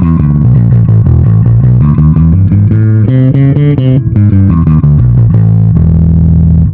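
Yamaha SBV-550 electric bass played through a Line 6 Bass POD: a quick run of plucked notes, ending on a held low note that cuts off suddenly near the end.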